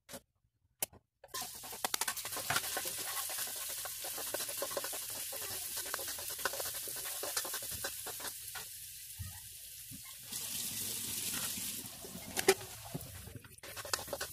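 Sliced onions sizzling in hot oil in a wok, starting about a second in, with the spatula clicking and scraping against the pan as they are stirred.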